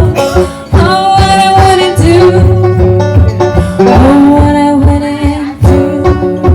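Live acoustic music: a song played by a duo, with long held sung notes over plucked string accompaniment and a steady beat.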